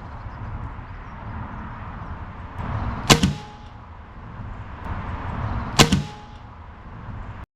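Umarex AirSaber air-powered arrow rifle firing, twice about three seconds apart: each shot a sharp crack after a short rising hiss, followed by a brief metallic ring. A steady low rumble sits underneath.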